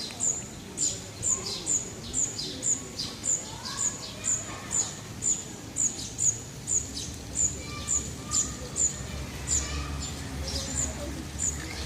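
A songbird repeating a sharp, high call that drops steeply in pitch, about twice a second, which thins out about nine seconds in, while other birds sing more softly underneath. A low rumble comes in near the end.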